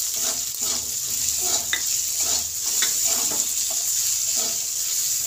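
Grated ginger and slit green chillies sizzling in hot mustard oil in a metal kadai, with a steady hiss, while a metal spatula scrapes and taps the pan about twice a second as they are stirred and fried.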